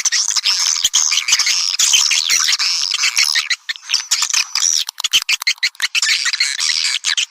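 Swiftlet lure call: a dense chorus of edible-nest swiftlets twittering and chirping in fast, continuous chatter, the recording played to call swiftlets into a nesting house.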